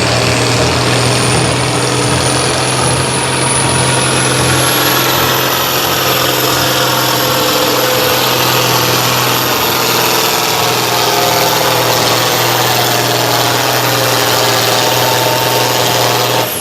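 Competition pulling tractor's turbo diesel engine held at full throttle under load during a pull, with a high turbo whistle that climbs twice, about one and about four seconds in, then holds. At the very end the whistle drops away sharply as the throttle comes off.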